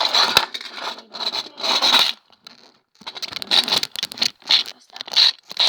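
Aerosol deodorant spray hissing in a series of short bursts, with a pause of about a second in the middle.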